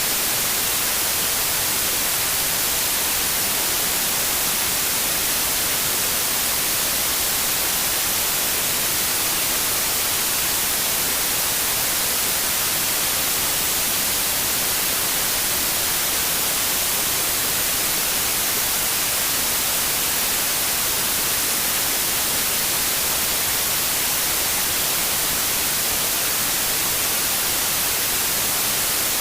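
Steady white noise: an even hiss strongest in the high frequencies, unchanging throughout.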